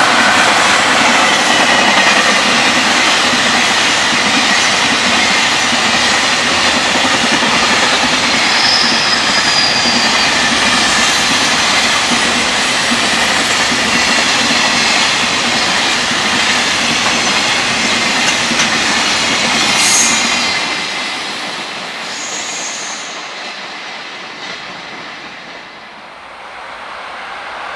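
A freight train of container wagons running past at speed, its wheels clattering over the rail joints. About two-thirds of the way through the train has passed and the sound dies away.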